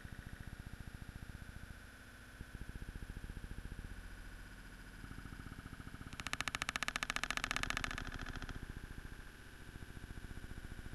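Rain on a wet patio, its sound slowed down with the slow-motion footage into a buzzy, rapidly pulsing drone with a steady high tone. It swells louder and brighter for about two seconds in the middle.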